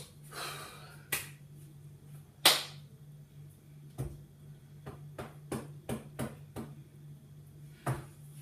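Scattered light taps and knocks, with one louder knock about two and a half seconds in and a run of quick small taps later on, over a steady low hum.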